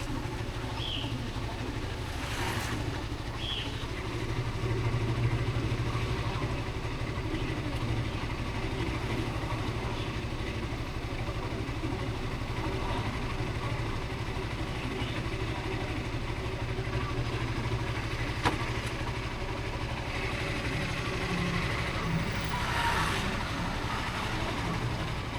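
Motorcycle running steadily on the road during a ride, with a single sharp click about eighteen seconds in.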